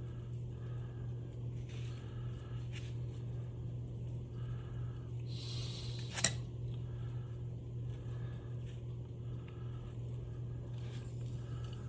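Faint small-parts handling on a workbench, light scrapes and one sharp click about halfway through, over a steady low hum.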